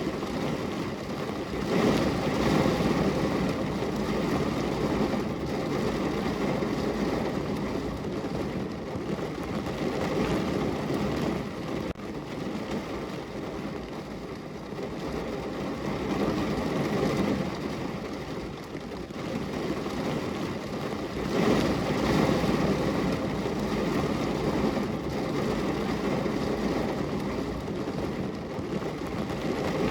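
Heavy rain falling on a car's roof, heard from inside the car: a dense, steady patter that swells louder twice, about two seconds in and again a little past twenty seconds.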